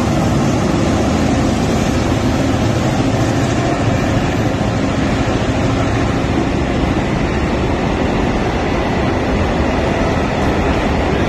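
Freight train of grain hopper wagons rolling steadily past, a continuous loud rumble of wheels on rail.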